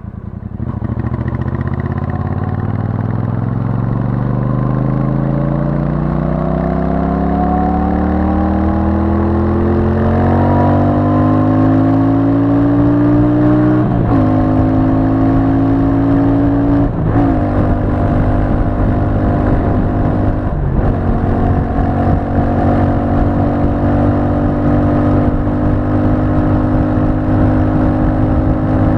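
Royal Enfield Super Meteor 650's 648 cc parallel-twin on its stock exhaust, accelerating. The pitch climbs steadily for about fourteen seconds, then drops briefly as the rider shifts up three times, and it settles into a steady run.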